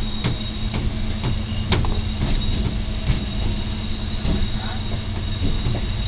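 Train running at speed heard from aboard: a steady rumbling drone with a thin high whine over it, and irregular sharp clicks of the wheels passing over rail joints.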